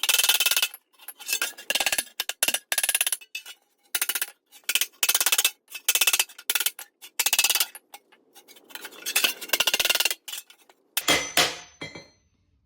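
Hammer blows on a steel shovel blade resting on an anvil, ringing sharply, in quick runs with short pauses between them: the blade is being flattened to take a bow out of its middle.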